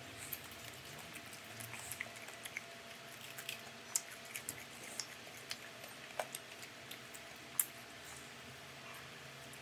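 A person eating fried duck close to the microphone: irregular small clicks and smacks of chewing, some sharper than others.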